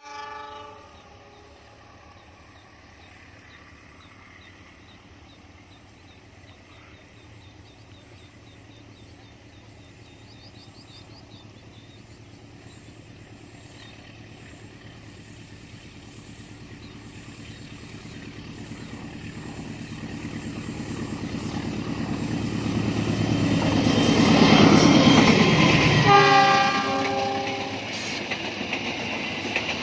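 Diesel train approaching and passing close, its rumble growing louder over about ten seconds. The locomotive's horn sounds briefly at the very start and again, loudest, about 26 seconds in as it reaches the crossing, with the wheels and cars going by after.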